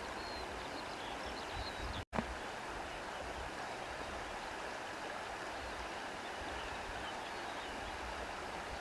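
Steady rush of flowing stream water, with a few faint high chirps above it. The sound cuts out completely for an instant about two seconds in.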